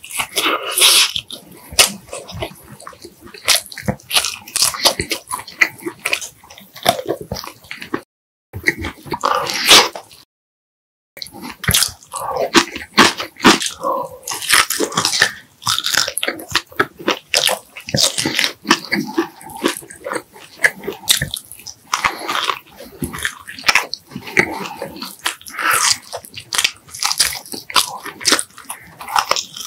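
Close-miked eating sounds: a person biting and chewing food, with many quick wet clicks and smacks. The sound drops out completely twice, briefly, about a third of the way in.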